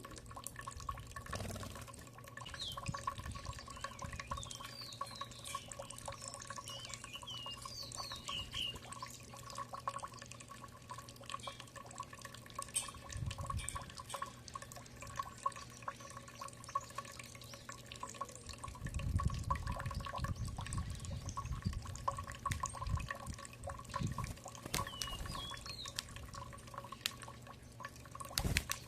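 Small birds giving short, high chirps, mostly in the first several seconds and again near the end. Under them runs a steady patter of light clicks and taps, with low rumbles about two-thirds of the way through and a faint constant hum.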